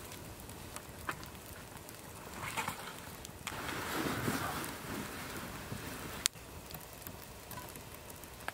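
Water dripping and pattering steadily from rain-soaked pine needles, with scattered small ticks of drops. Louder noise swells about three and four seconds in, and a single sharp click about six seconds in.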